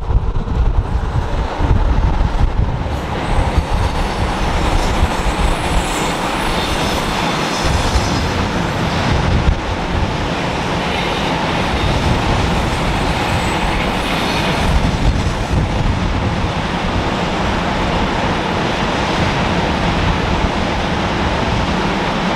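Freight train of covered hopper wagons rolling past on the rails: a loud, steady rumble of wheels and wagons that carries on unbroken.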